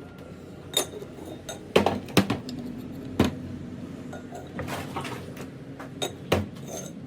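Metal parts and tools clinking and knocking against one another in a handful of sharp, separate strikes, over a steady low hum.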